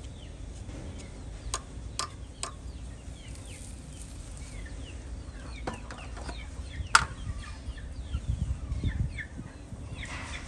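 Birds chirping repeatedly in short falling calls over a low rumble, with a few sharp clicks, the loudest about seven seconds in.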